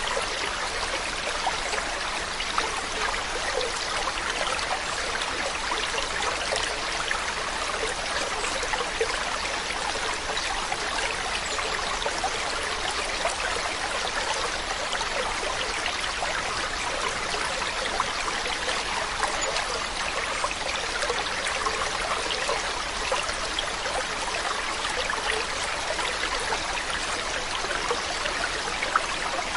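Running water splashing and babbling steadily, a continuous stream of many small splashes that does not change.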